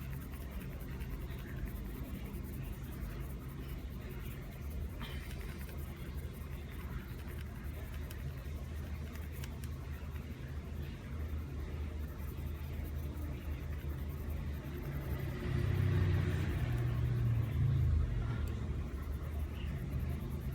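A steady low engine-like rumble with a hum to it, swelling louder for a few seconds about three quarters of the way through.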